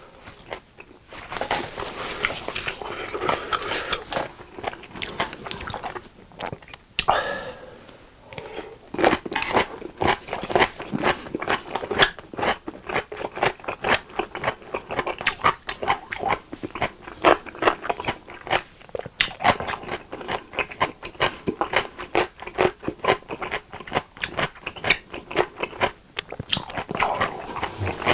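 Close-miked mouth chewing a mouthful of food: quick wet smacking clicks that become dense and steady about a third of the way in.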